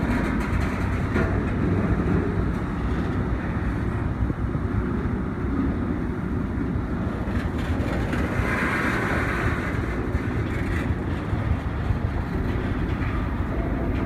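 Train rolling past with a steady low rumble of wheels on rail, with a brief rise in higher-pitched noise about nine seconds in.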